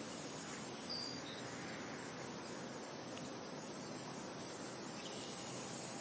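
Steady wind noise, an even rushing hiss, with a brief high chirp about a second in.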